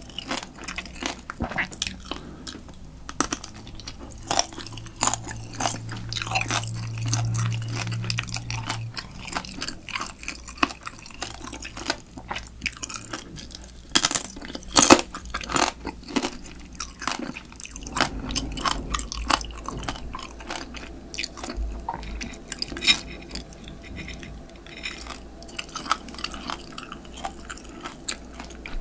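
Spicy marinated raw crab (yangnyeom-gejang) being eaten by hand: wet chewing and repeated sharp crunches as the crab shell is bitten and chewed, the loudest crunches about halfway through.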